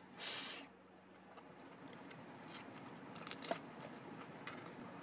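A bite into a crisp tostada with lettuce, then faint chewing with scattered crunches and mouth clicks.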